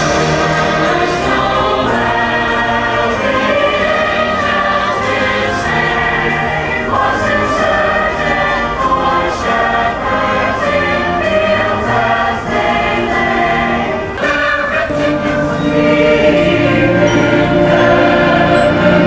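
Choral music: a choir singing held notes over a full musical accompaniment.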